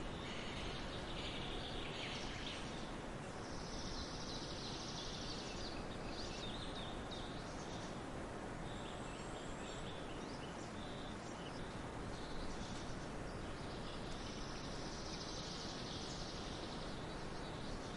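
Forest ambience: wild birds chirping and singing over a steady background hiss. Twice, about four seconds in and again near the end, a longer high-pitched call stands out above the scattered chirps.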